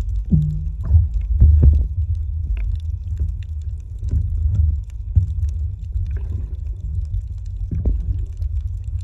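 Muffled underwater rumble picked up by a camera below the surface, with irregular gurgling pops and a brief low hum just after the start.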